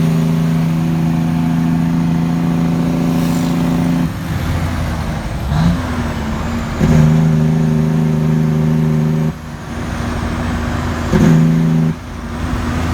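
Kenworth T800 diesel tractor-trailer's engine brake (jake brake) on a downhill grade, a steady low pitched drone that holds for about four seconds, cuts out, comes on again for about two and a half seconds, then once more briefly near the end, with the truck running underneath.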